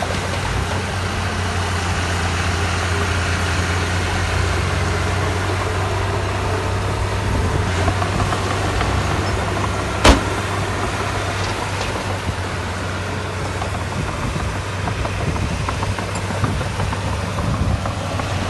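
Heavy diesel earthmoving machinery running steadily with a low engine hum, with one sharp bang about halfway through.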